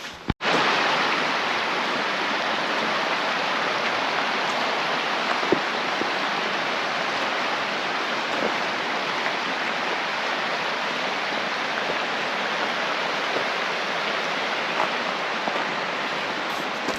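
Steady rush of a fast stream running over rocks.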